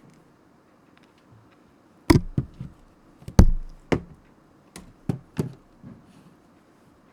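A run of about eight sharp, irregular knocks and taps on a hard desk surface, two of them much louder and heavier than the rest.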